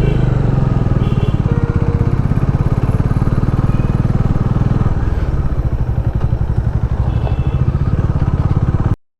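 Motorcycle engine running with a steady, fast pulsing beat, cutting off suddenly near the end.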